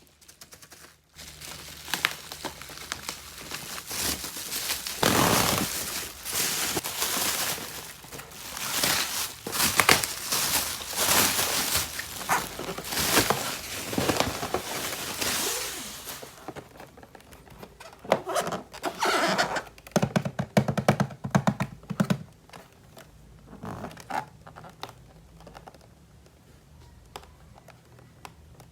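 Hands unpacking and handling a plastic toy playset: rustling and scraping for the first half, then scattered clicks and knocks of plastic pieces.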